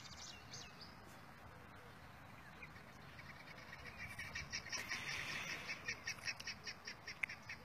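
Bird calling: a fast run of short, high chirps, about five a second, starting about three seconds in and loudest in the middle.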